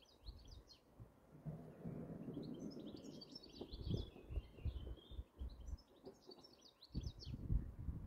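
Small songbirds chirping and twittering in several short bursts, over a low, uneven rumble.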